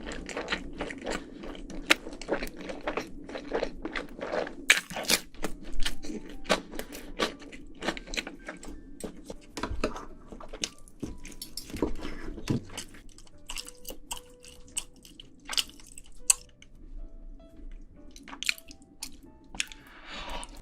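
Close-miked chewing and crunching of food, with irregular crisp crackles and wet mouth clicks.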